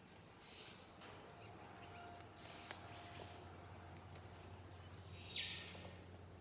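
Faint, harsh bird calls repeating about every two seconds, the last the loudest, with a few light clicks from barbed wire being handled.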